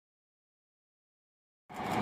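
Dead silence, then about a second and a half in, the noise of a train at a station platform cuts in abruptly.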